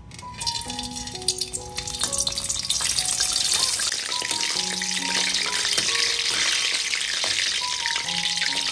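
Food sizzling in hot oil in a pan, starting just after the start and getting louder about two seconds in, then cutting off near the end.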